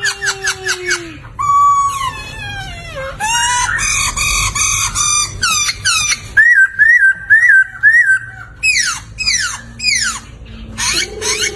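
Poksay (laughingthrush) singing a varied song of clear whistles and fast trills. About halfway through comes a string of five repeated rising-and-falling notes, then a run of quick downward-sweeping notes.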